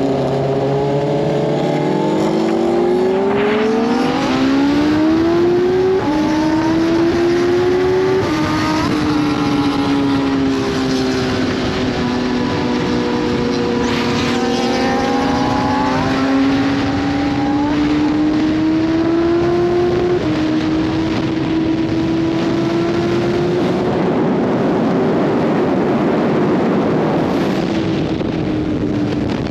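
BMW S1000RR's inline-four with an SC Project full titanium exhaust accelerating through the gears, the engine pitch climbing and stepping back at each upshift, then settling into a steady cruise. Wind rushes over the microphone more and more near the end.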